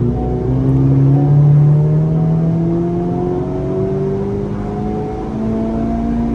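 Honda Civic Type R FL5's 2.0-litre turbocharged four-cylinder engine pulling at full load on a chassis dyno during a power run, its revs rising steadily in pitch through the gear.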